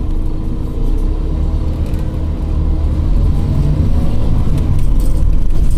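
Scania OmniCity city bus running, heard from inside the cabin: a steady low engine and road rumble that grows louder about three seconds in.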